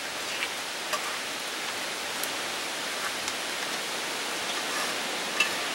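Onions frying in hot oil in a cast-iron Dutch oven: a steady sizzle with scattered small pops and clicks.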